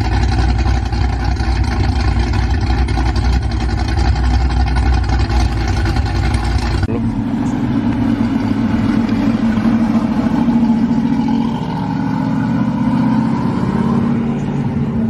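Car engines running, first with a deep rumble, then, after a sudden cut about seven seconds in, a different engine with a higher, pulsing note.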